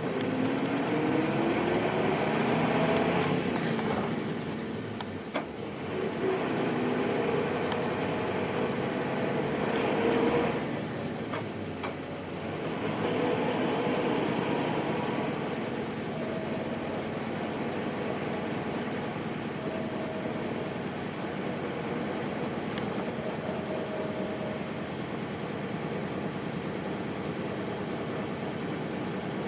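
Nissan Diesel Space Runner RM city bus's FE6 diesel engine, heard from inside the cabin, pulling up through the gears of its five-speed manual box. The engine note rises, breaks at shifts a few times over roughly the first fifteen seconds, then settles into a steady cruise.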